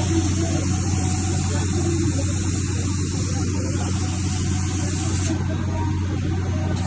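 Steady machine hum with a constant airy hiss, typical of a CO2 laser cutter's exhaust fan and air-assist pump running.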